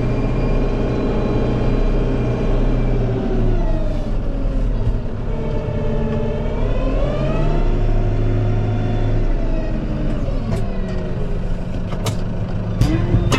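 Farm tractor engine running while scraping cow slurry out of a shed, its revs dipping under load and recovering. A few sharp knocks near the end.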